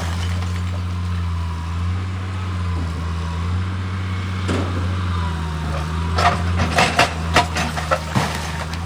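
A steady low engine drone, with a cluster of sharp knocks and clicks from about six seconds in.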